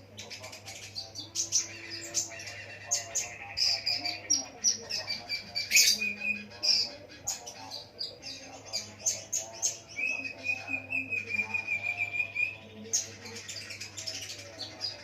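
Konin lovebird singing non-stop: a fast run of chirps and twitters, with a long even trill about ten seconds in. A steady low hum runs underneath.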